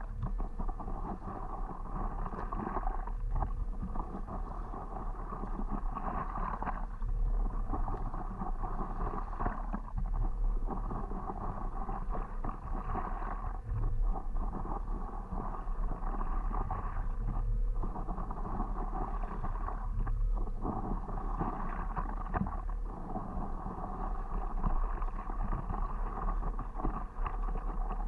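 Water sloshing and splashing around a stand-up paddleboard as it is paddled along, with wind rumbling on the microphone.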